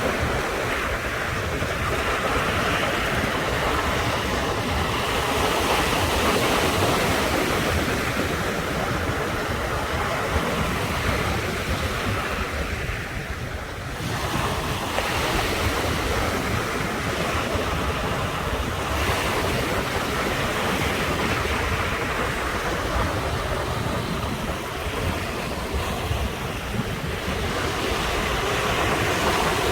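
Sea surf washing onto the shore in a continuous rush that eases about halfway through and then swells again, with wind buffeting the microphone.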